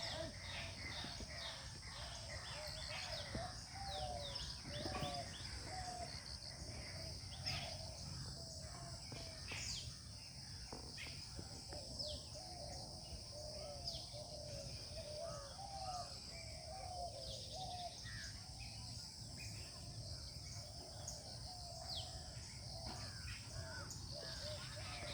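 Garden birds calling: many short calls repeat and overlap throughout, with scattered higher chirps, over a steady high-pitched hiss.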